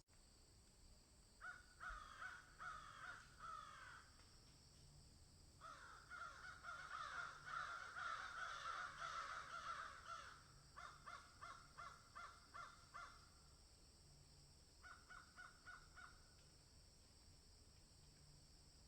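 Birds calling in bouts: a short run of calls about two seconds in, a dense stretch of overlapping calls from about six to ten seconds, then quick runs of repeated short notes, over a steady faint high hiss.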